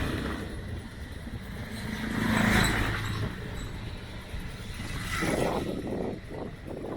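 Motorbikes passing close by one after another, each swelling and fading: one fading away at the start, then two more passing about two and a half and five seconds in.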